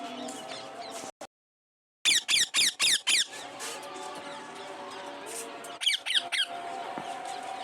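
Parrot giving a quick run of about six shrill, falling squeaks in about a second, then three more shortly before the end. A brief cut to total silence comes just before the first run.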